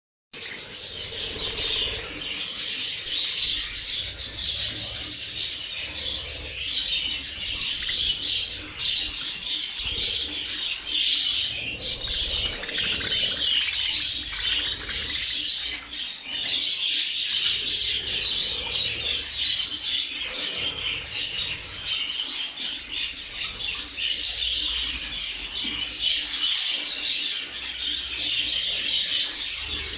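A large flock of budgerigars chattering and chirping in a dense, unbroken mass of calls.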